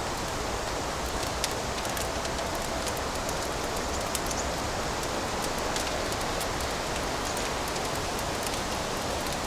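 Fire crackling in a fireplace: a steady rushing hiss with many small, sharp crackles and pops scattered through it.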